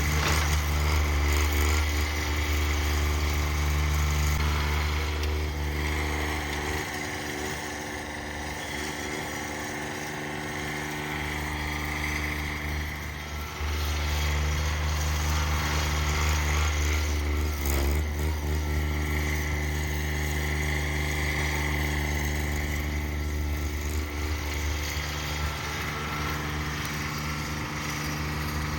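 Cub Cadet 1782 garden tractor engine running steadily. Its low hum weakens for several seconds about a quarter of the way in, then comes back, with a single short knock a little past the middle.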